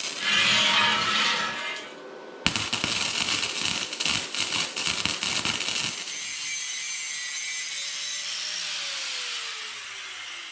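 Metalworking power tool cutting or grinding the steel frame: a loud hiss of metal being cut for the first couple of seconds, an abrupt break, then a stretch of irregular crackling, and finally a steadier whir whose pitch falls near the end as the tool winds down.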